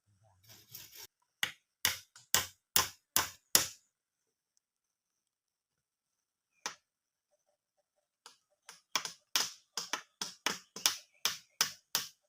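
Sharp repeated strikes, hard and clicking: a run of six about two a second, a single strike in the quiet middle, then a faster run of about three a second.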